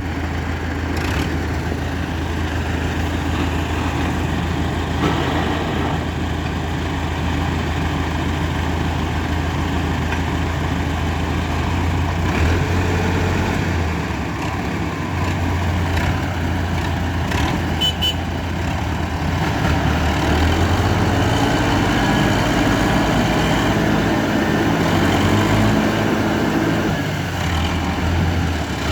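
Tractor engine running steadily, with a strong low hum; its note shifts a few times, about halfway through and again near the end.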